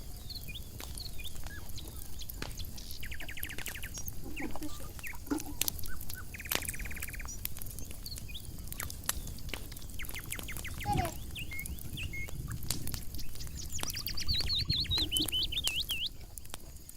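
Small birds chirping and trilling: short buzzy trills, scattered chirps and a fast warbling run near the end, with scattered light clicks and knocks.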